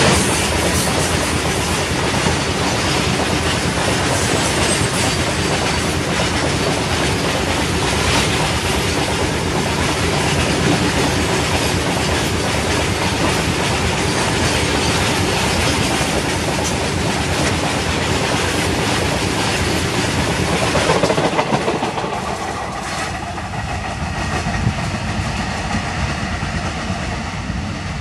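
A long freight train of open wagons rolling past at close range: a steady, loud din of wheels running on the rails. It eases off about three-quarters of the way through.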